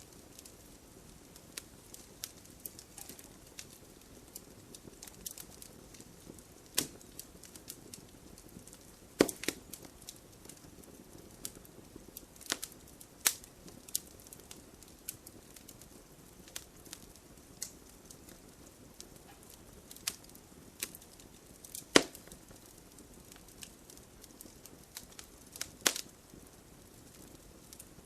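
Wood fire crackling in an open fireplace: a steady low hiss of the burning with irregular sharp pops and snaps, the loudest about nine seconds in and again about twenty-two seconds in.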